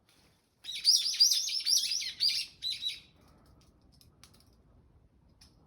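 Japanese bush warbler (uguisu) singing: a fast run of repeated high chirping notes starting about half a second in and lasting about two and a half seconds.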